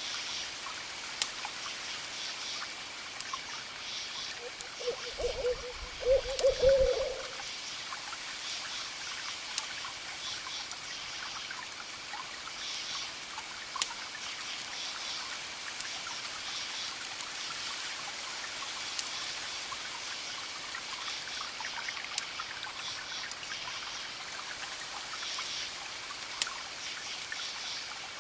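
Campfire crackling with scattered sharp pops, crickets chirping in short repeated clusters, and a steady hiss of distant waves. About five seconds in, a low wavering call in two parts stands out as the loudest sound.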